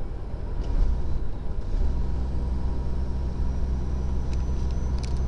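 Heavy truck's diesel engine running with road noise, heard inside the cab of a 2014 Freightliner Columbia on a steep downgrade; about two seconds in the engine note settles into a steady low drone. A few light clicks near the end.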